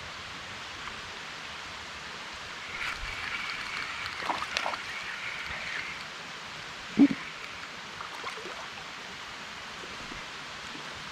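Light rain falling steadily, with a louder stretch of small clicks and rattling from about three to six seconds in and a single knock about seven seconds in.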